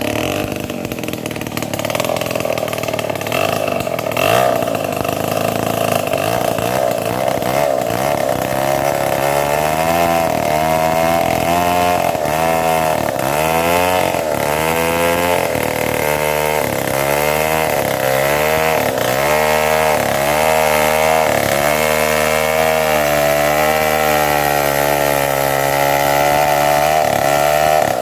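Chainsaw engine running at high revs while cutting mahogany wood. From about a third of the way in, its pitch dips and recovers every second or two as the chain bites into the wood under load.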